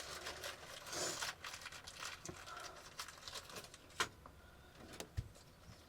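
Faint handling noises of fitting a panel and screws by hand: soft rustling with scattered light clicks and taps, the sharpest about four and five seconds in.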